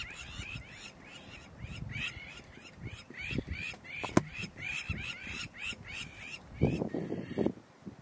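A bird calling over and over, a quick string of short rising-then-falling notes at about three a second, which stops a little before the end. A sharp click comes about four seconds in, and near the end there is a brief, louder, low burst of noise.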